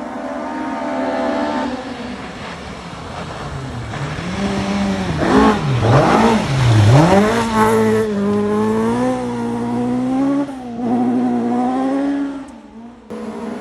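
Rally car's engine at speed on a forest stage. Its pitch dips and jumps back up sharply three times in quick succession as it passes at its loudest, about midway, then holds steady under power. It cuts off abruptly near the end, where another car's engine starts.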